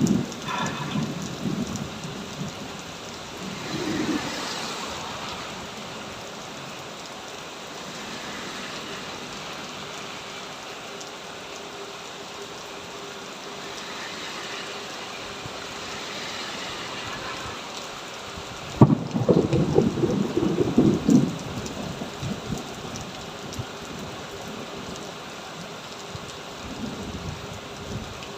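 Heavy rain pouring steadily, with thunder. Low rumbles come in the first few seconds, and a sharp thunderclap about two-thirds of the way through is followed by a couple of seconds of loud rumbling.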